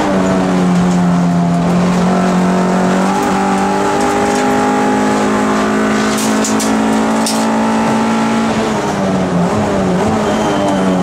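MG ZR race car's engine heard from inside the cabin, running hard at high revs. Its pitch steps up twice in the first few seconds, holds steady, then falls and wavers about nine seconds in as the driver comes off the throttle.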